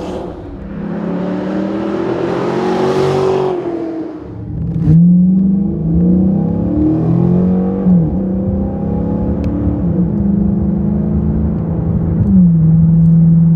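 Dodge Challenger SRT8's 6.1-litre Hemi V8 running through its exhaust. The engine note climbs and drops several times, then holds steady near the end.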